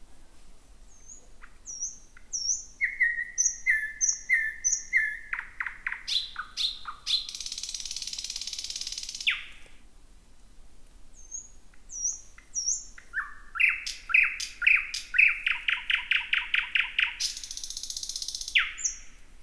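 Thrush nightingale singing two song phrases. Each starts with repeated whistled notes, speeds up into a fast run of sharp, loud clicks and ends in a long dry rattle of about two seconds.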